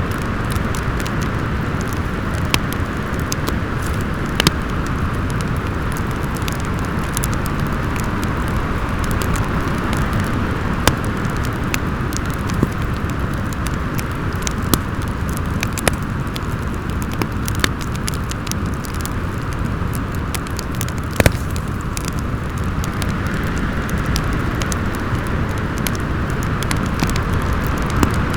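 Snowstorm wind howling steadily under a crackling wood fire, with sharp pops scattered every second or so and one louder pop about three quarters of the way through.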